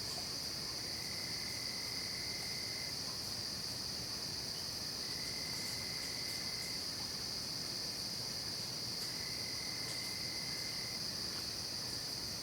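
Night insect chorus of crickets, a steady high-pitched trilling that does not let up. A fainter, lower trill comes in three times, each lasting about two seconds, roughly four seconds apart.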